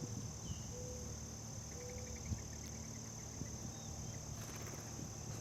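Steady high-pitched trill of insects, with a few faint short bird chirps and a brief quick series of ticks about two seconds in.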